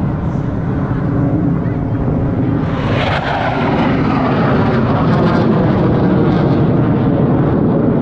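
U.S. Air Force Thunderbirds F-16 fighter jets flying past with a continuous jet roar. The roar swells into a louder, brighter pass about three seconds in and stays loud after it.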